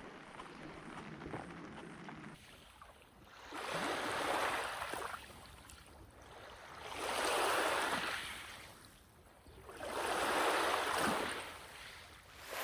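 Small lake waves washing onto a beach: three swells that rise and fall about three seconds apart.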